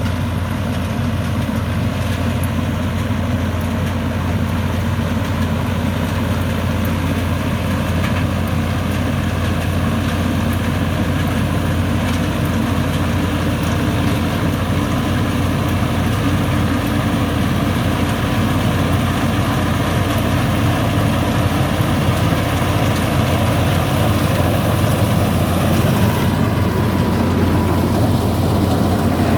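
Engine of a paddy-cutting tractor machine running steadily and loudly, its level rising slightly near the end.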